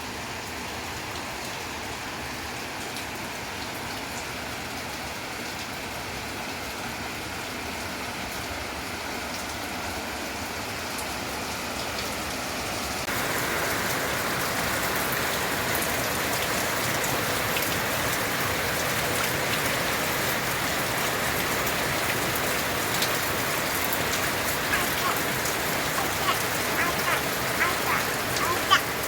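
Steady rain falling, an even hiss that grows louder about halfway through. Near the end single drops tick sharply close by.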